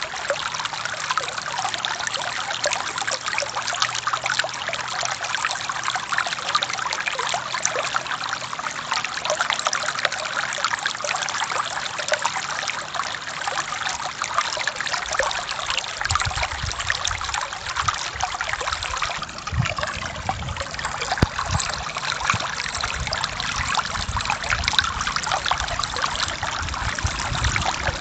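Forest stream flowing with a steady, dense babble of running water. A low rumble joins in a little past halfway.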